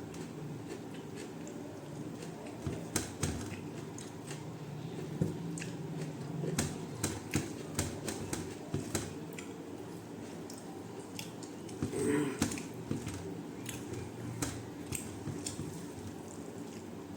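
A person eating rice, dal and mushroom gravy: wet chewing and scattered mouth clicks and smacks, with a louder squelchy patch about twelve seconds in, over a steady low hum.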